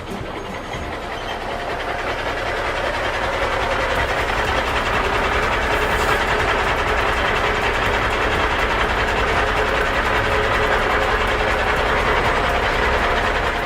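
A vehicle's steady mechanical running noise with a fast rattle in it, growing louder over the first few seconds, then holding level and stopping at the end.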